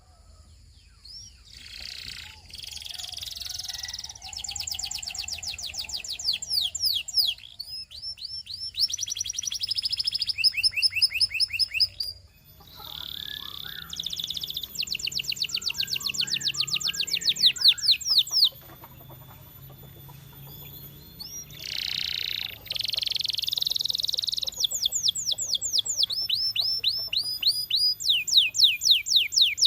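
Canary singing: phrase after phrase of fast trills made of the same sweeping note repeated many times a second, broken by short pauses and a few longer slurred notes.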